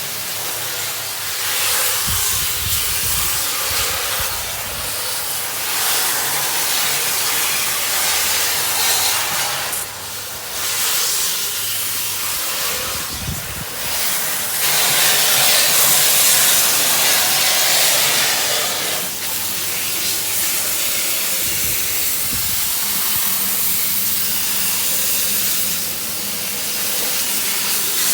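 Water spraying hard from a hose, a steady hiss that rises and falls as the spray moves over the engine bay, rinsing off degreaser.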